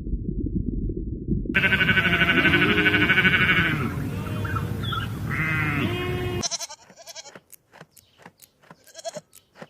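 Bleating livestock: loud, quavering bleats begin about a second and a half in, several calls overlapping for about five seconds. Before them there is a low muffled rumble. After an abrupt cut come a string of sharp clicks and short, fainter cries.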